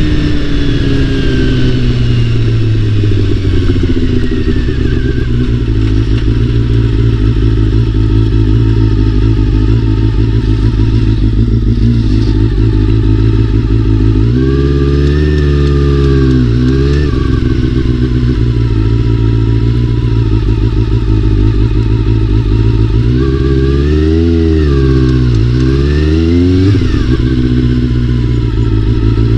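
Honda CBR400RR's inline-four engine running on the move, easing off in pitch over the first few seconds, then holding steady. About halfway through and again near the end it revs up and back down.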